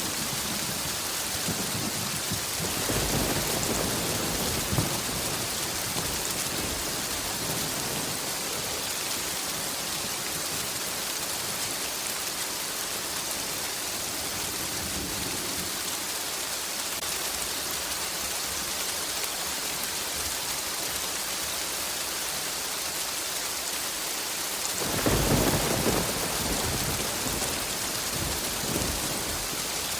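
Steady rain hissing on surfaces, with rolls of thunder: a low rumble a few seconds in and a louder one starting about 25 seconds in.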